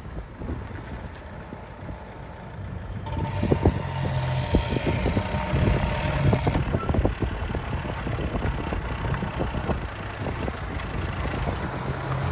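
Detroit Diesel 6V92TA two-stroke V6 diesel engine of an FTF logging truck running. About three seconds in it grows louder and a steady whine joins for a few seconds, amid frequent short knocks and rattles.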